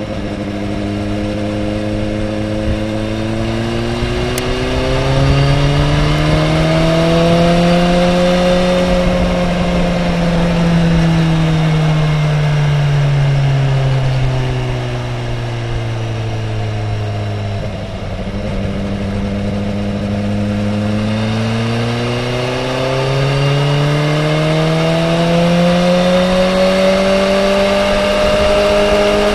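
Sport motorcycle engine running hard at track speed, heard from on board; the engine pitch climbs for about nine seconds, drops back until about eighteen seconds in, then climbs again.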